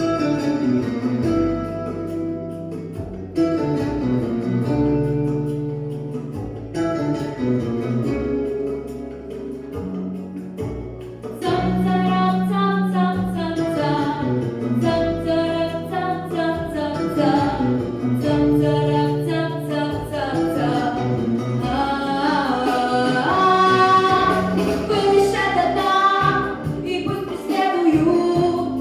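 A young female singer performs a pop song over a backing track with a steady bass line; the music gets louder and fuller about twelve seconds in.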